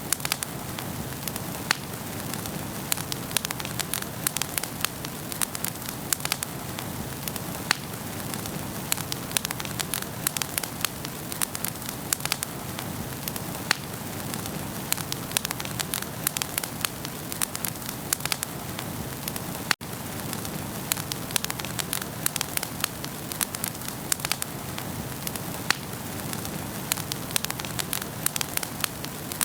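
Wood fire burning in a fireplace: a steady hiss with dense, irregular crackles and sharp pops. A split-second dropout about two-thirds of the way through.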